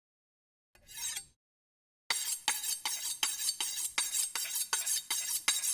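Kitchen utensil and dish sounds cut into a rhythm: a brief soft rustle about a second in, then from about two seconds in a steady run of sharp clinks and ticks, about four a second, over a hiss.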